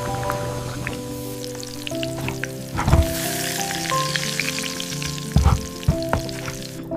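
Food sizzling in a hot pan, the hiss strongest in the first half, with a couple of sharp thuds about three and five seconds in, over gentle background music.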